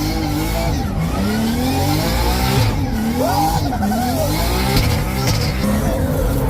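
A 1,000-horsepower drift car's turbocharged 2JZ inline-six revving hard through a drift, heard from inside the car. Its pitch swings up and down again and again as the throttle is worked.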